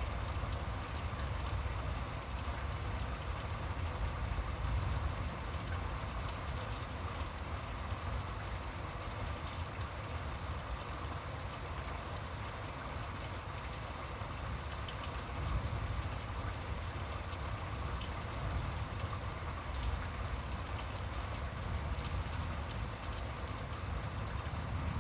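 Steady rain falling, an even hiss with a low rumble underneath and faint scattered drop ticks.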